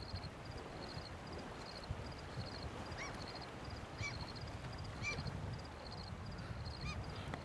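Nature ambience: a steady low rumble under high chirps that come in small clusters about twice a second, like insects. Short bird calls sound four times, about a second apart, in the second half.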